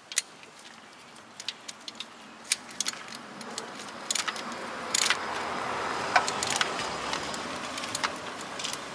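Ratchet wrench clicking and metal tools clinking as starter motor mounting bolts are snugged down. There are scattered sharp clicks at first, then a denser rasping run of clicks from about three seconds in until near the end.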